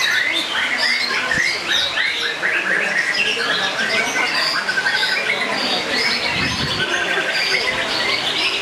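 Many caged songbirds singing at once: a dense, overlapping mix of chirps, fast trills and rattling song phrases.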